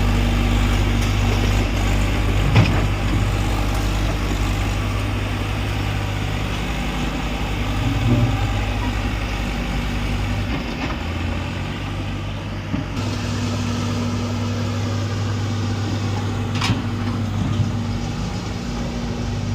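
Diesel engine of a Bull 55 hp bulldozer running steadily. Its note shifts briefly about ten seconds in, and there are a couple of short sharp clicks.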